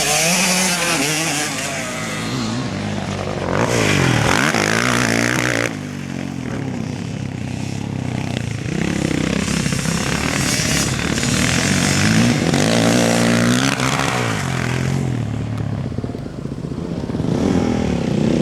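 Motocross bikes riding the track, their engines revving up and down with gear changes, several at once and overlapping. Loudest about four to six seconds in, as one passes close.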